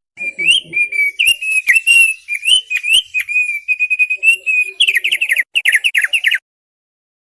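Thick-billed heleia (opior paruh tebal) singing: a run of clear whistled notes at a fairly steady pitch, then a quick series of rapid falling notes about five seconds in, cutting off abruptly.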